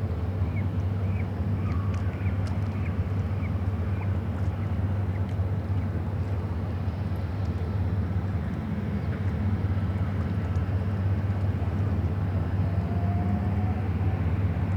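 A steady low engine drone. Over the first few seconds a bird gives a run of short high chirps, about three a second.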